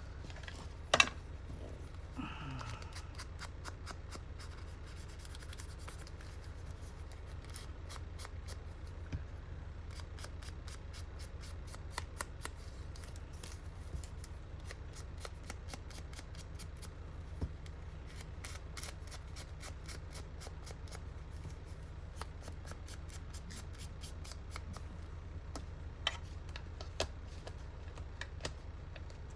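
Scissors cutting paper: a long run of small snips, with one sharper click about a second in, over a steady low hum.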